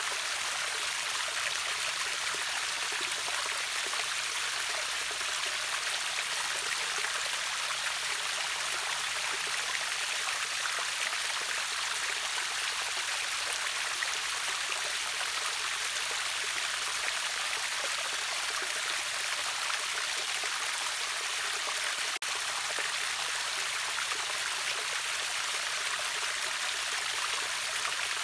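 River waterfall: a steady, even rush of falling and splashing water, bright and hissy with little low rumble. A split-second dropout breaks it about three-quarters of the way through.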